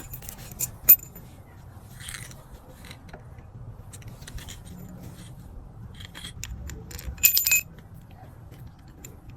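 Small metal parts being handled, with scattered clicks and two sharp ringing clinks, one about a second in and a short cluster near the end, over a steady low hum.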